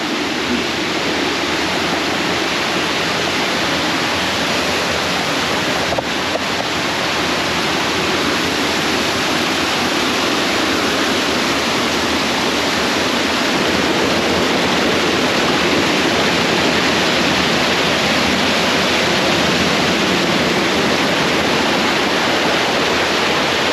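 A short waterfall pouring and splashing in a steady, loud rush of water.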